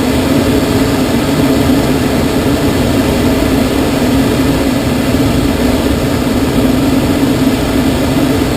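Steady rush of air streaming past a glider's cockpit in unpowered flight, loud and unbroken, with a low droning hum under the hiss.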